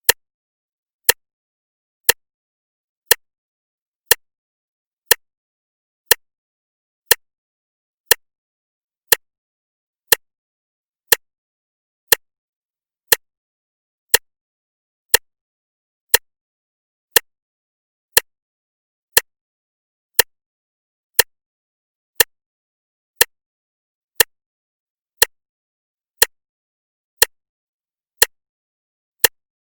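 Clock ticking, one sharp, even tick each second with silence between the ticks.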